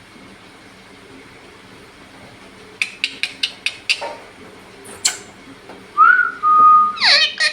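Pet parrot whistling: a quick run of about five sharp clicks about three seconds in, then near the end a clear whistle that rises and holds steady, followed by a short falling whistle.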